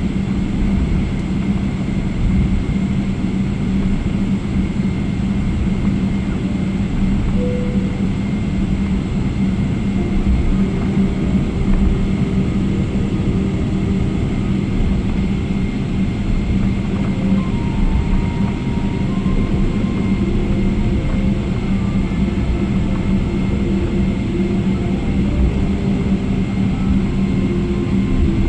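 Steady cabin noise of a Boeing 777 jet airliner, heard from inside the cabin: an even engine and airflow rumble with a constant low hum.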